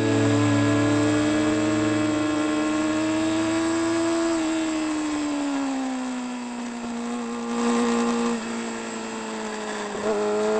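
Motorcycle engine running at sustained high revs. Its pitch eases down a few seconds in, holds steady, then climbs again near the end as the throttle is opened.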